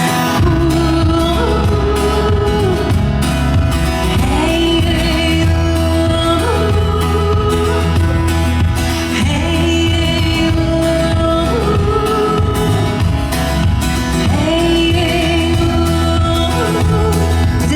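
Live band music: the full band with bass and drums comes in right at the start, under a held, gliding sung or played melody line.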